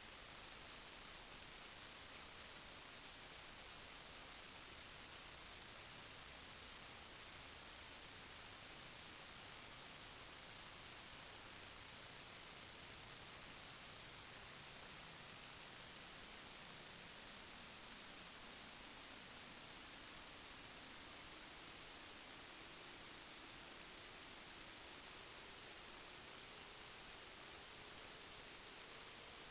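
Steady high-pitched electronic whine over a constant hiss, with a faint low tone slowly rising in pitch through the second half.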